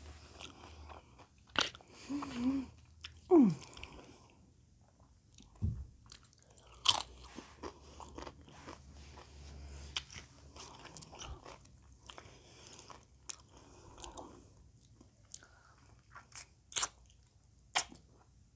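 Close-up chewing and crunching of tortilla-chip nachos, with sharp crunches scattered throughout. Two brief voiced hums come about two and three and a half seconds in, the second falling in pitch and the loudest sound.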